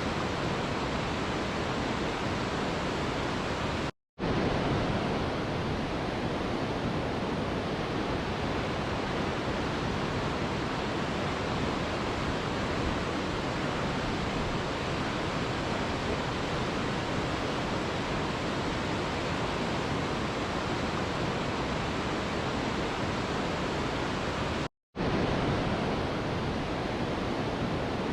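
Mountain river rushing steadily over rocks, an even, unbroken water noise. It cuts out to silence for a split second twice: about four seconds in and again near the end.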